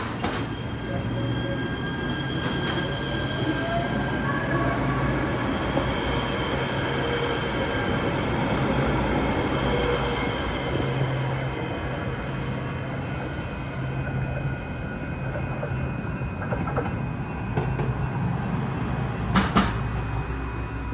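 Los Angeles Metro train running on the tracks: a steady rumble with thin, high steel-wheel squeal tones over it. A couple of short, sharp sounds come near the end.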